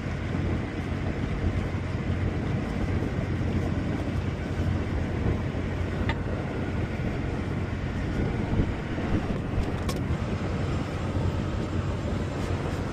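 Engine idling steadily with a low, even hum, with a couple of faint clicks about six and ten seconds in.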